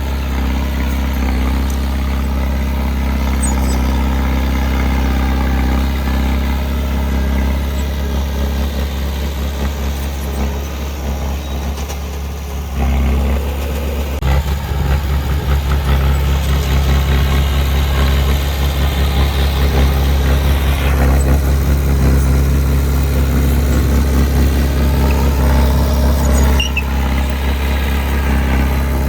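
Diesel engine of a heavy earthmoving machine running steadily with a deep drone. Its sound shifts about 13 seconds in, with extra mechanical noise for several seconds.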